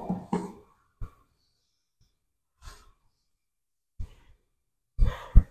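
A man's breathing: a few separate sighs and heavy breaths out, with a couple of short knocks.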